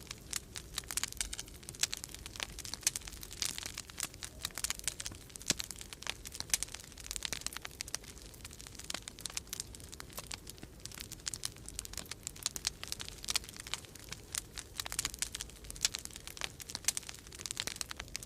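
Wood fire crackling in a fireplace: dense, irregular pops and snaps, over a low steady rumble.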